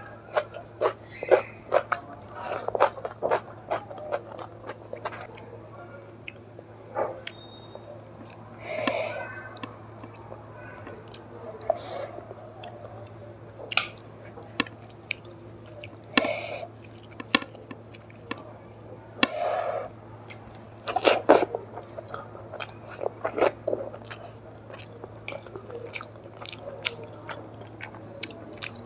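Close-miked mouth sounds of someone eating rice mixed with dal and curry by hand: wet chewing and lip smacks in irregular bursts, with now and then a sharper crunchy bite.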